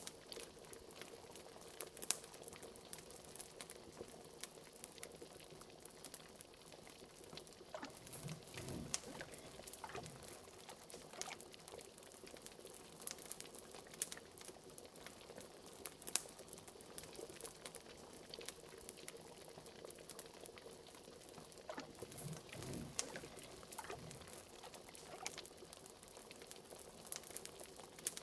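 Liquid bubbling softly and steadily, with many scattered sharp crackles from a fire. A few deeper gloops come about eight to ten seconds in and again around twenty-two seconds.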